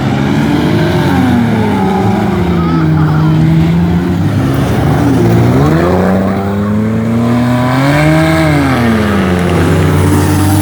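Demolition derby car engines revving, their pitch climbing and falling several times: up about a second in, down to a low around five seconds, and up again near eight seconds.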